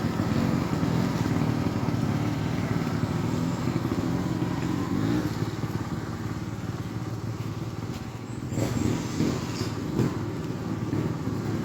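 Trials motorcycle engine running at low revs with small throttle changes, and a few sharp knocks in the last few seconds.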